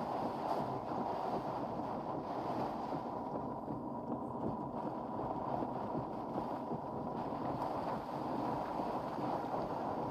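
Hurricane wind blowing in a steady, unbroken rushing noise with no gusts or breaks standing out.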